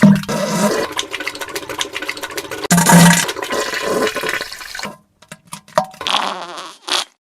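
Wet diarrhea and fart sound effects: gushing, spluttering noise with low buzzing fart blasts near the start and about three seconds in, in abruptly cut clips broken by short silences.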